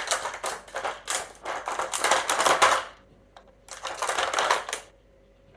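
A dog's treat puzzle toy clattering in quick, rattling bursts as the dog paws and noses at its pieces, for about three seconds, then again briefly before going quiet near the end.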